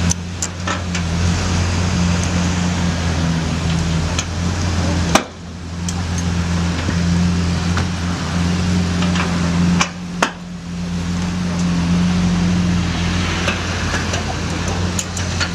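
Vehicle engine idling with a steady low drone, with scattered clicks and knocks on top. The sound breaks off sharply twice, about five and ten seconds in.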